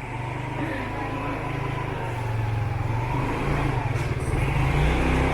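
Motorbike engine running steadily, growing a little louder over the last couple of seconds.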